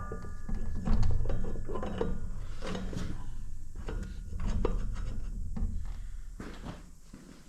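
Metal parts and tools handled on a workbench: scattered clinks and knocks, with a short metallic ring at the start and a low rumble that fades near the end.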